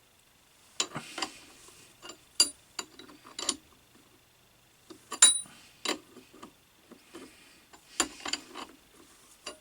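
Irregular metal clinks and knocks of tools and steel parts handled against a cast-iron lathe steady rest, coming in short clusters with pauses between.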